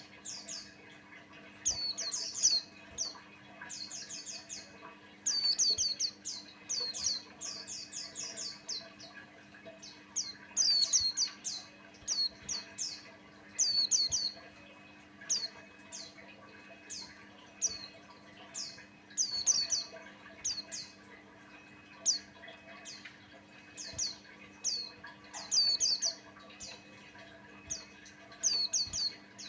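A white-eye (pleci buxtoni) singing: quick bursts of thin, high chirps made of short falling notes, a fresh burst every second or two. A faint steady hum lies beneath.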